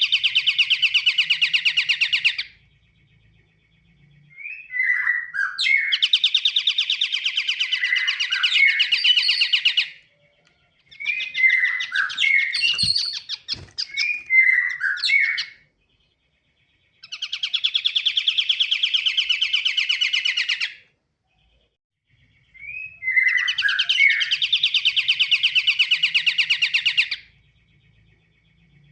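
Pied triller (kapasan kemiri) singing loud, repeated song phrases. Each phrase opens with a few separate whistled notes and runs into a long, rapid trill, and a new phrase starts every five seconds or so.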